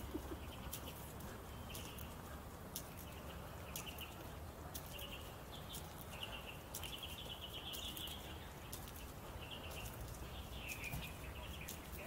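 Small birds chirping in short, repeated calls, sometimes in quick runs, over a steady low rumble of outdoor background noise.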